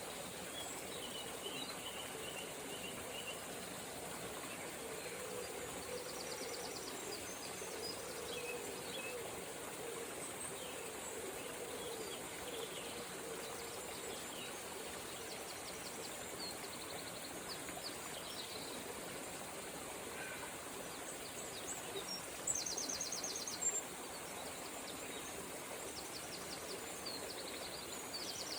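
River water running steadily under birdsong: scattered chirps and several high, rapid trills, the loudest a trill of about a second roughly three-quarters of the way through.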